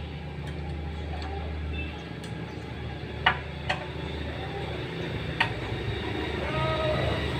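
Three sharp metallic clinks of tools against engine parts while a small water-pump engine with a broken connecting rod is being taken apart, over a steady low hum.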